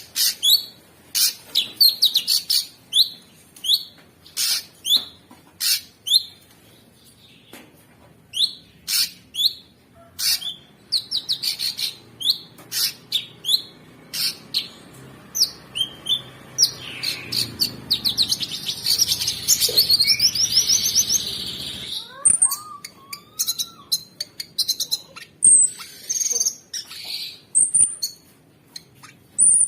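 Cucak sungkok singing: a run of short, sharp, high-pitched chirps repeated again and again, breaking into fast rattling trills and a dense stretch of chattering in the middle.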